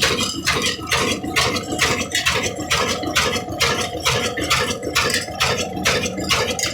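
Old single-cylinder desi diesel ('kala') engine running under load on a flour mill, its exhaust beating in an even rhythm of about three strokes a second over a steady drone.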